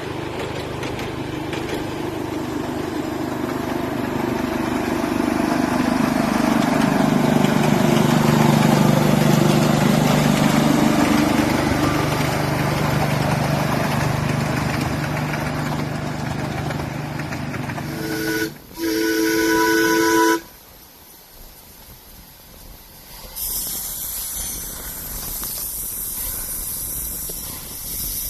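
Miniature locomotive on 7.5-inch gauge track running steadily, getting louder around the middle. Near the end it gives a short horn or whistle toot and then a longer blast of about a second and a half. It cuts off suddenly, and a few seconds later a steady hiss of steam comes in.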